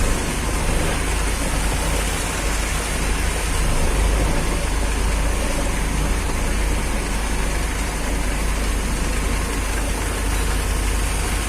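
Heavy vehicle engine running steadily with a deep low rumble, a little louder about four seconds in.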